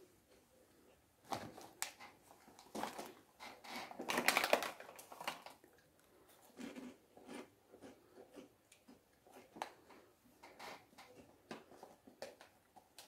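Soft crunching and chewing of puffed beet snacks, with scattered crackles of the foil snack bag being handled; the loudest rustle comes about four seconds in.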